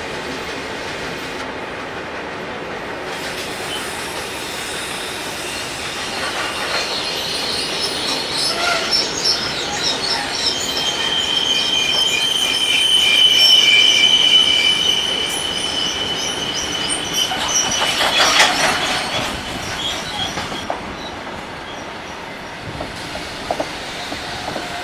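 Railway train running on the track with a high steady wheel squeal for several seconds around the middle, then a louder patch of clicking and rattling from the wheels.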